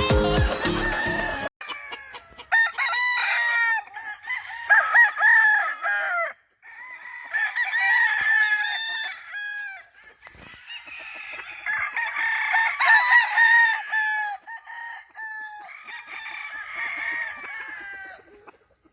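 Gamefowl roosters crowing, several crows in a row with short gaps between them, mixed with clucking.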